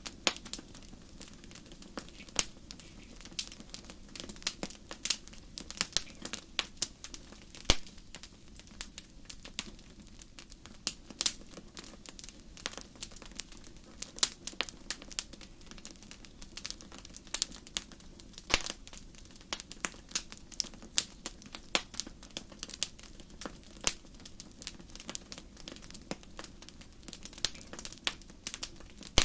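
Wood fire crackling in a fireplace: many irregular sharp pops and snaps over a faint low hiss.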